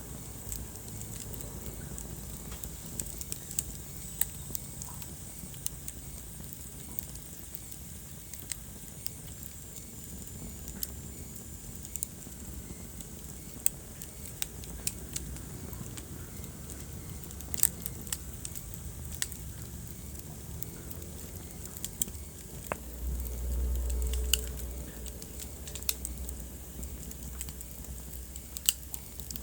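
Wood fire burning in a fireplace: scattered sharp crackles and pops over a steady low rumble of the flames. The rumble swells louder for a couple of seconds near the end.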